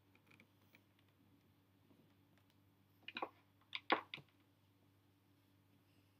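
A few quiet clicks and knocks from handling the laptop, in a cluster about three to four seconds in, over a faint steady hum.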